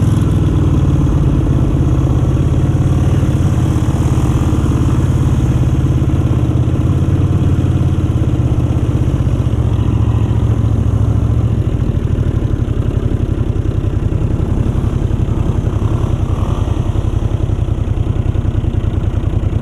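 Vintage Honda motorcycle engine running steadily, then settling to an even idle about twelve seconds in.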